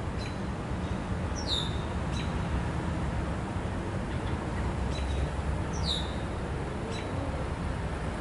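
A bird calling outdoors. Two loud high calls sweep down in pitch, about a second and a half in and again near six seconds, with short high chirps between them, over a steady low rumble.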